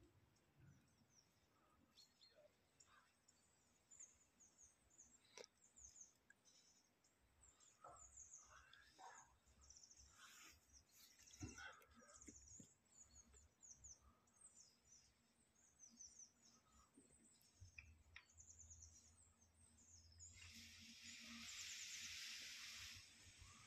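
Near silence with faint, scattered high bird chirps, and a brief rush of hissing noise near the end.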